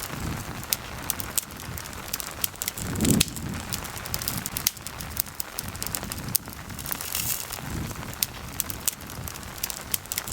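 Campfire crackling with frequent sharp pops over a steady hiss of rain. A low whoosh swells briefly about three seconds in.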